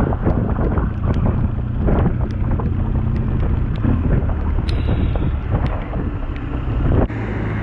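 Road noise and heavy wind buffeting the microphone on a moving BMW R1200GS motorcycle, with the steady hum of its boxer-twin engine underneath.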